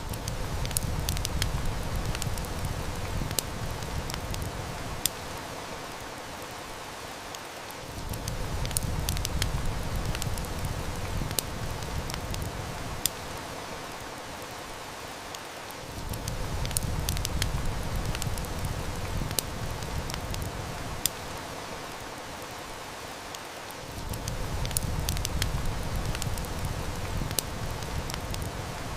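Steady rain-like hiss with wood fire crackling and snapping in sharp little pops. A low rumble swells and fades about every eight seconds, repeating like a loop.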